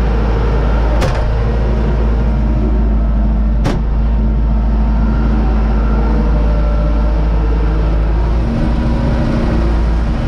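Universal U-650 tractor's four-cylinder diesel engine running steadily. Two sharp clicks come through, about a second in and again a few seconds later.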